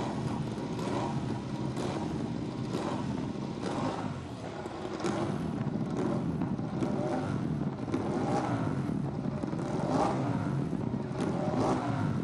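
Ducati MotoGP race bikes' V4 engines being revved, in repeated sharp blips of the throttle.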